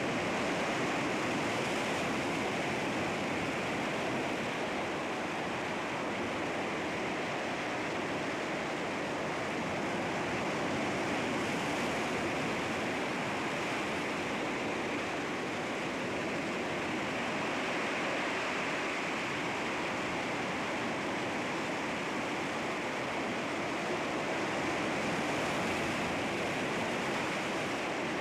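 Sea waves washing against rocks: a continuous rush of surf with only slight rise and fall in level.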